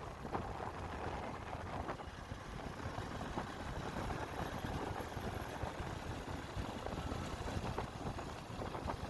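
Motorcycle engine running on the road, mixed with the rush and buffeting of wind over the microphone.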